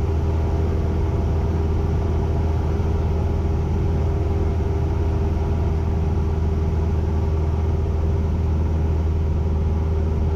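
Cessna 172N's four-cylinder Lycoming engine and propeller droning steadily in flight at a constant power setting.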